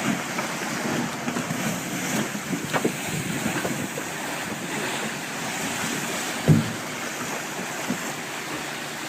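Wind buffeting the microphone over the wash of water around a boat, with one short dull thump about six and a half seconds in.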